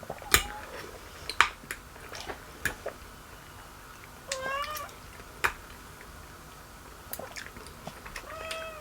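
A cat meowing twice, a short call that bends up and down about halfway through and another near the end. Scattered sharp clicks and smacks from someone eating.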